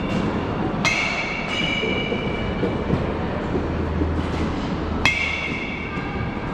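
Sharp metallic clanks, each ringing briefly with a bell-like tone: one about a second in, a fainter ring just after, and another near the end, over a steady background din.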